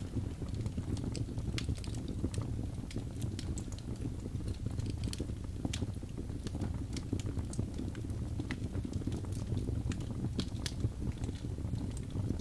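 Wood fire crackling: a steady low rumble with scattered sharp pops and snaps at irregular moments.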